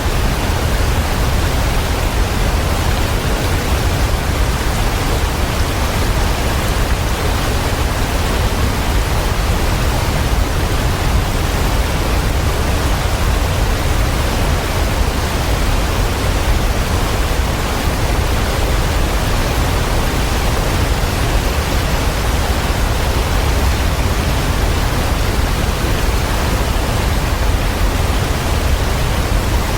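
Waterfall: falling water as a steady, even rush with a strong deep low end and no separate splashes or changes.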